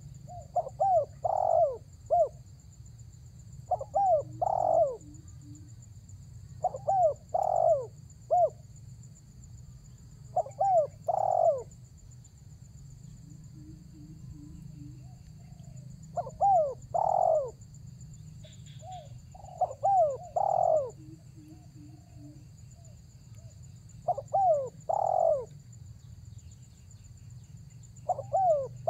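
Spotted dove (tekukur) cooing its song over and over: each phrase is a quick group of three or four notes that arch up and slide down, repeated about every three to four seconds, with a longer pause midway.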